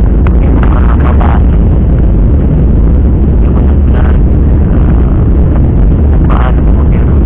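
Loud, steady low rumble of an airliner's jet engines heard inside the cabin, strong enough to overload the phone microphone, with faint voices breaking through now and then.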